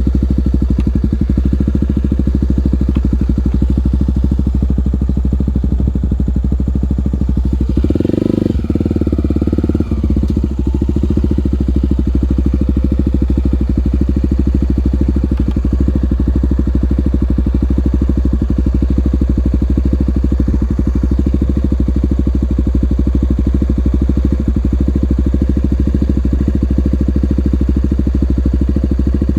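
Single-cylinder four-stroke trail motorcycle engine running steadily at close range, with a brief surge about eight seconds in.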